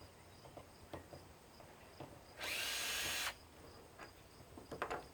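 A power drill runs in one short, steady burst of about a second, a little over two seconds in, with a few light clicks of parts being handled around it.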